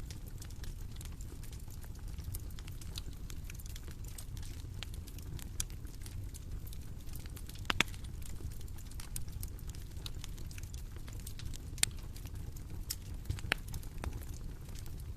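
Bonfire crackling: irregular small pops and snaps over a steady low rumble of burning, with two sharper pops about eight and twelve seconds in.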